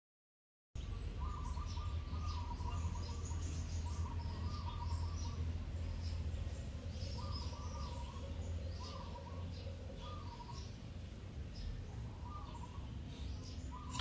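Birds calling: one repeating short warbling calls every second or two, with scattered higher chirps, over a steady low hum. The sound cuts in abruptly under a second in.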